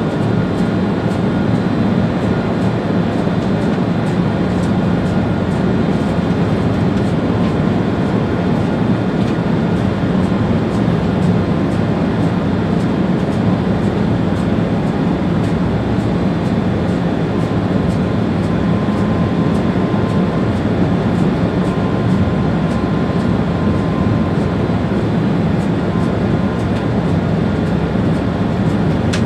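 ÖBB Railjet train running at speed on the line, heard from the driver's cab: a steady rumble of wheels on rail and running gear that does not let up, with a faint whine joining for a few seconds past the middle.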